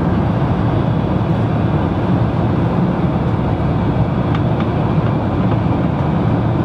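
Steady low drone of an airliner's cabin noise from the engines and the air rushing past.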